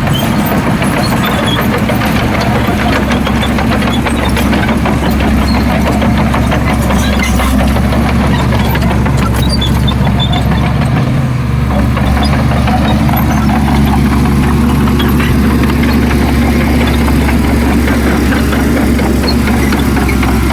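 Heavy diesel engine of an earthmoving machine running steadily, a continuous low drone with no breaks.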